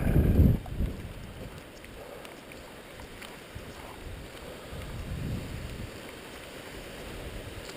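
Wind gusting against the microphone, heavy in the first half second, then a lower steady rush of wind with a brief swell about five seconds in.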